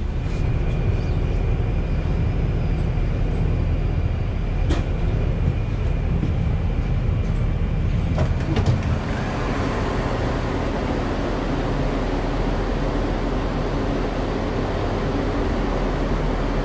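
Euregiobahn regional train heard from inside as it runs into a station: a steady rumble with a thin high whine, a few clicks and knocks about eight seconds in, then a broader, noisier wash with no whine as the platform is reached.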